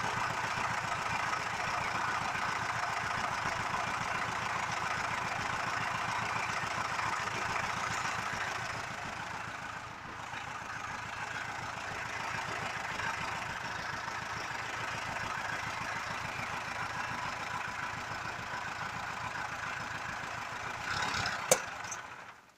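ZAZ-968 Zaporozhets air-cooled V4 engine idling steadily, with a short dip in level about halfway through. Near the end there is a sharp click, and the engine sound then stops.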